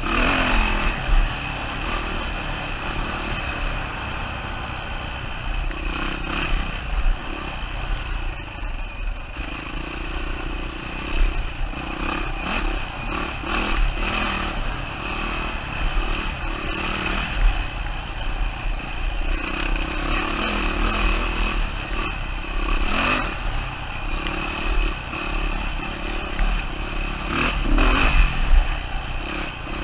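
2007 Yamaha WR450F's single-cylinder four-stroke engine running, its revs rising and falling unevenly as it climbs a trail, with frequent knocks and clatter throughout.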